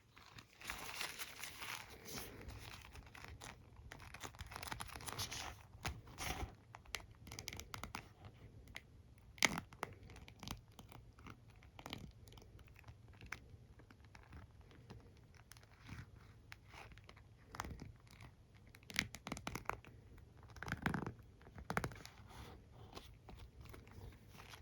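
Hands handling a hairbrush and comb close to the microphone: scratchy rubbing over the bristles for the first few seconds, then scattered taps and clicks with short scratchy strokes.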